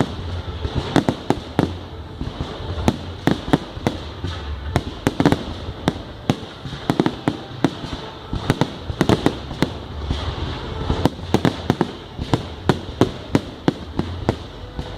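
Fireworks going off in rapid, irregular cracks and bangs, several a second, over a low rumble.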